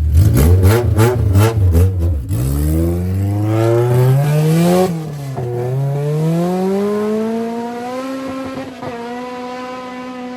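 Car engine revved in quick pulses, then pulling away under hard acceleration, its note climbing to a gear change about five seconds in and climbing again before levelling off as it fades.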